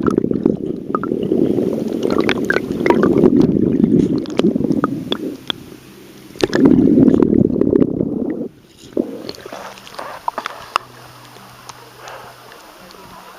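Rumbling, rustling noise right on the microphone with scattered knocks, in two long stretches, the first about five seconds and the second about two, then a quiet outdoor background with a few faint clicks.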